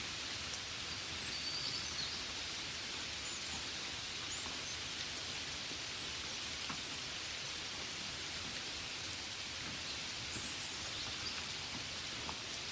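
Steady gentle rain, a constant soft hiss with scattered faint drop taps. A few faint high chirps come through about a second in and again near the end.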